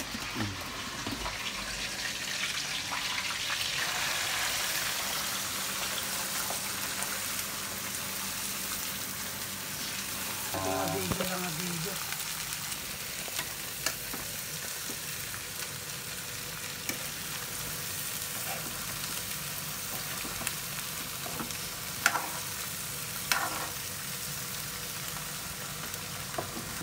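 Peanuts frying in a pan, sizzling steadily while a metal spoon stirs them, with scattered scrapes and clicks of the spoon against the pan and two sharper knocks near the end.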